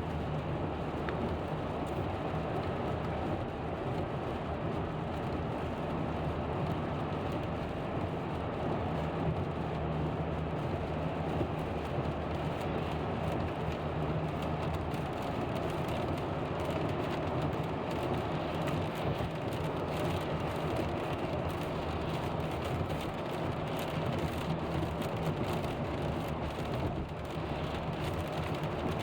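A car driving in rain: steady road and tyre noise from wet pavement, with rain striking the car.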